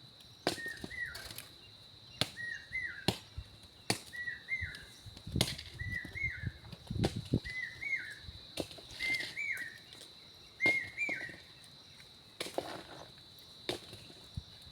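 A bird repeating the same short two-note call about once a second, eight times, stopping a few seconds before the end. Sharp knocks come irregularly throughout, and a steady high insect-like whine runs underneath.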